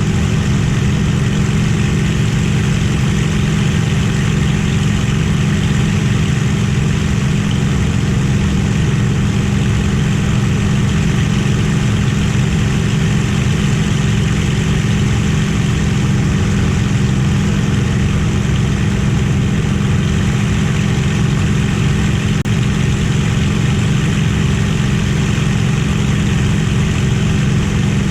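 Merlin V12 piston aero engine running steadily, a loud even drone that holds one pitch and level throughout, without the rise and fall of a passing aircraft.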